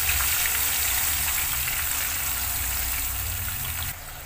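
Sliced shallots and spice paste frying in hot oil in a wok, a steady crackling sizzle that drops away suddenly near the end.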